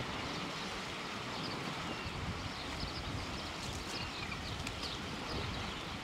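Birds chirping, short high calls over and over, over a steady rushing background noise.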